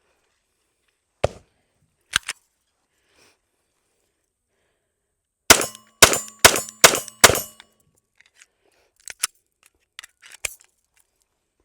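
A SIG P365 AXG pistol in .380 fired six times in quick succession, about a third of a second apart, with a ringing tone under the volley. Sharp handling clicks come before the shots and lighter clicks after them.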